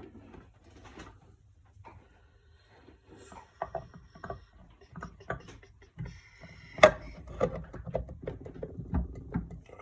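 Small clicks and knocks of a metal engine side cover being handled into place over a gasket, then one sharp clack about seven seconds in as the flywheel's magnets pull the cover onto the crankcase, followed by a few lighter taps.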